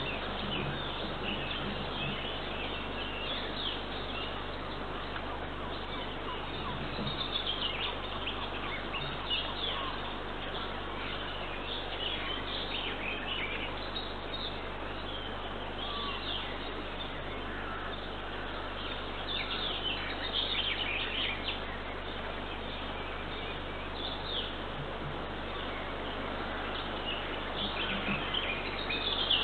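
Small wild birds chirping and singing in short scattered calls over a steady background hiss, heard through a nest camera's microphone.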